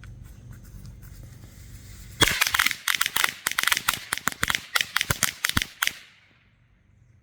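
A string of The Works Lady Crackers firecrackers going off: a rapid, irregular chain of sharp cracks starts about two seconds in, runs for almost four seconds, then stops.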